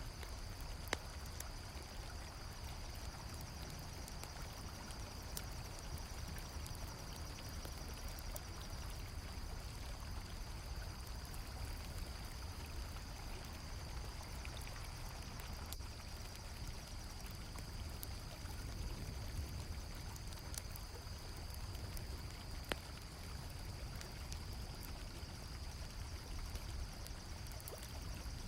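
Steady flow of a river with a continuous high cricket trill over it, and scattered small crackles of a campfire. Two sharper pops stand out, one about a second in and one about three-quarters of the way through.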